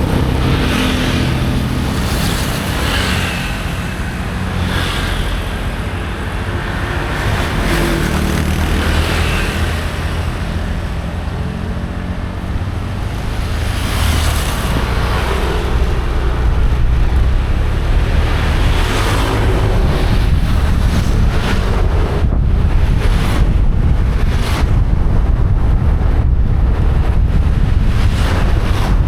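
Motorcycle engine running while riding, with wind buffeting the microphone. The engine note is clearer in the first half, then the wind noise takes over and gets louder.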